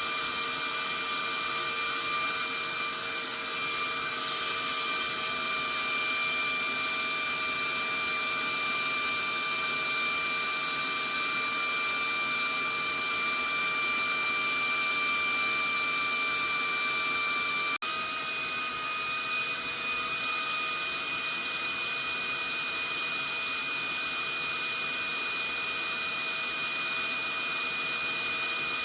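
Vacuum cleaner motor running steadily: a constant rushing hiss with a thin steady whine on top. About 18 seconds in it cuts out for an instant and resumes a little louder, its whine slightly higher.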